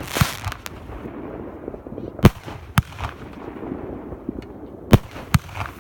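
Fireworks and firecrackers going off: single sharp bangs at irregular intervals, the loudest about two and a quarter seconds in and just before five seconds, with a short crackling burst right at the start.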